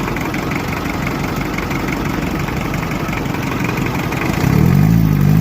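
Car engine idling steadily while its cooling system is flushed with water to clear out rust. About four and a half seconds in, a louder low engine drone joins, wavering up and down in pitch.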